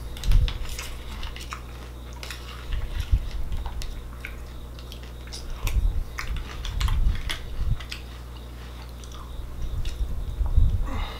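Close-up chewing of a mouthful of Raisin Bran Crunch cereal with milk, in bursts of a second or two separated by short pauses.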